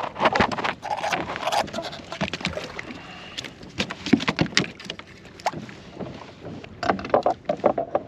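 Irregular knocks and clatters of a just-caught speckled trout being landed and handled aboard a plastic kayak.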